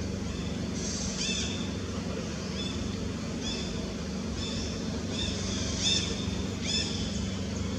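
A bird chirping in short high arched notes, about one a second, over a steady low hum.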